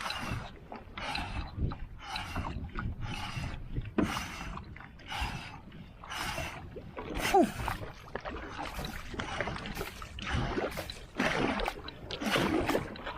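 Steady rhythmic paddle strokes of a one-person outrigger canoe: the HYPR Liberator blade splashes and pulls through the water in a regular beat, about one and a half strokes a second.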